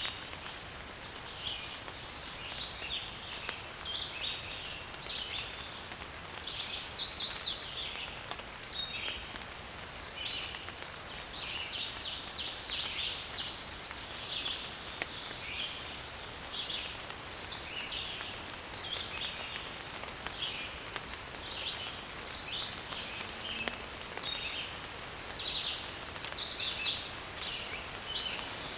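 Woodland birds chirping and singing over a steady hiss, with one louder rapid trilled song phrase twice, about seven seconds in and again near the end.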